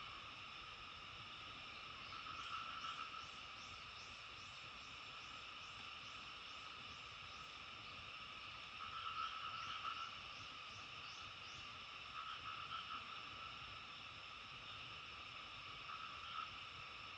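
Frog chorus: a steady, faint layered calling with louder bouts of croaking every few seconds. A run of quick, short high chirps, about two a second, comes over it twice.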